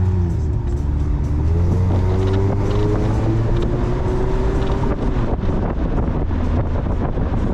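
Mazda Miata's four-cylinder engine pulling on the road, its pitch dipping briefly, then climbing and holding steady. After about five seconds the engine fades under wind buffeting the microphone.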